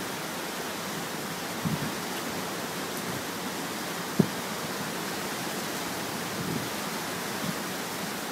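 Steady roar of tropical-storm wind and surf, with a few short low thumps of wind buffeting the microphone, the sharpest about four seconds in.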